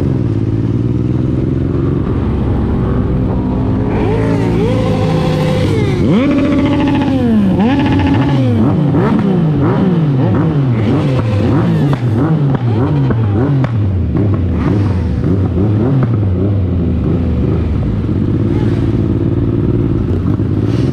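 Motorcycle engines running loudly, idling at first, then revving from about four seconds in, the pitch rising and falling again and again. They settle back to a steady idle near the end.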